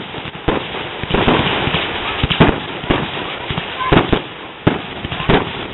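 Fireworks display: aerial shells bursting one after another, about six sharp bangs at uneven intervals over constant crackling.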